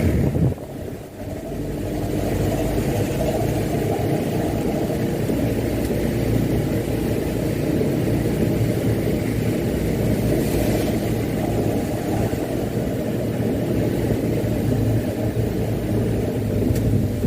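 Mitsubishi Canter dump truck's diesel engine running steadily while the loaded truck drives on. About half a second in, the engine sound dips sharply, then picks back up within a second or two.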